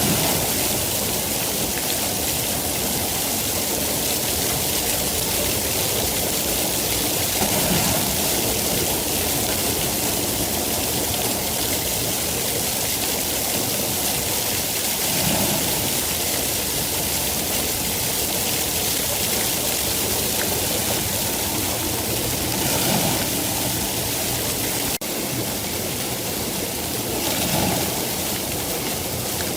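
Steady heavy rain, a dense even hiss, with a brief fuller swell every several seconds.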